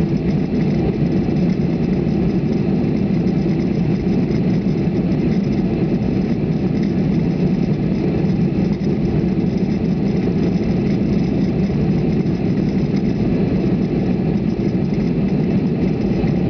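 Steady cabin noise inside a Boeing 737 airliner after take-off: an even low drone of its CFM56 turbofan engines and the airflow past the fuselage, heard from a window seat.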